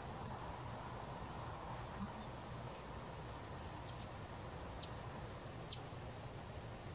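Faint open-field ambience: a steady low rumble, with a few short, high, thin bird calls about four, five and six seconds in.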